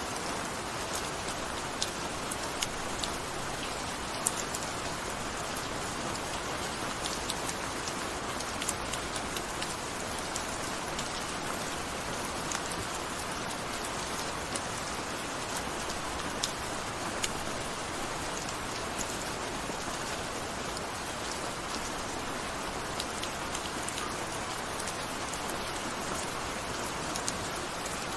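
Steady gentle rain: an even hiss of rainfall with many individual drops ticking sharply on a surface.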